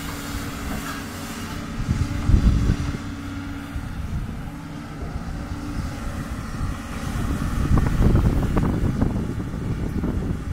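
Doosan DX200 excavator's diesel engine running, swelling into heavier rumbling about two seconds in and again around eight seconds as it works.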